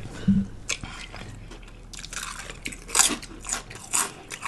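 Biting and chewing into a lettuce-wrapped Italian sub sandwich, with crisp crunches that are loudest about three and four seconds in.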